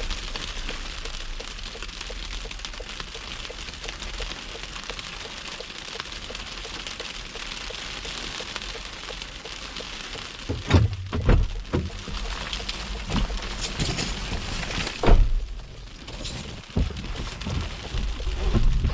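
Steady hiss of a car driving through snow, then a run of loud knocks and thumps starting about ten seconds in, the loudest about fifteen seconds in.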